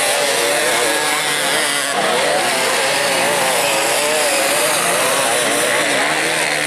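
Dirt bike engines revving and labouring, their pitch wavering up and down, over a steady background roar. The sound changes abruptly about two seconds in.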